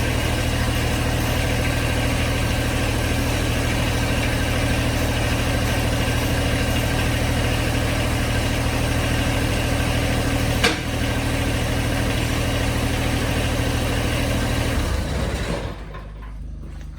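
John Deere 1025R compact tractor's three-cylinder diesel engine idling steadily, with one sharp click about ten seconds in. The engine shuts off and runs down near the end.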